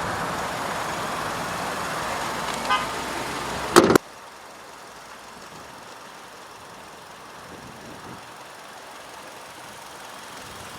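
Outdoor road traffic noise with a brief car horn toot, followed a second later by a loud sharp clunk. After the clunk the sound drops abruptly to a much quieter steady background.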